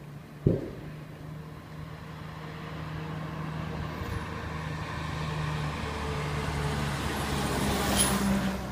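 Fire engine's diesel motor running with a steady hum, growing steadily louder. A sharp knock comes about half a second in, and a brief sharp click comes near the end.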